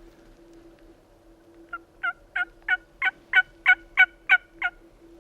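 A series of about ten turkey yelps, roughly three a second, building in loudness then easing off at the end.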